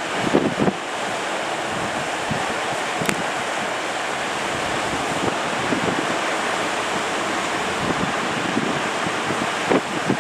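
Ocean surf breaking steadily, with wind buffeting the microphone in short gusts at the start and near the end.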